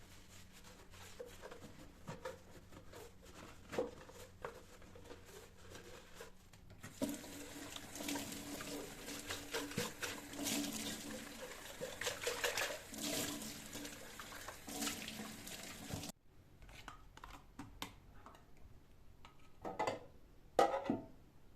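Tap water running into a sink, with scattered clinks and knocks of things being handled. About three-quarters of the way through it stops abruptly, leaving only a few quieter clicks and knocks.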